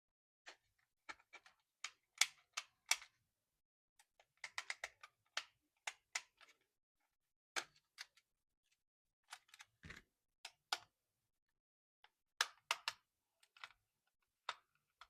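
Irregular clicks and taps of a plastic remote-control toy and its packaging being handled, in small clusters with silent gaps, and one heavier knock about ten seconds in.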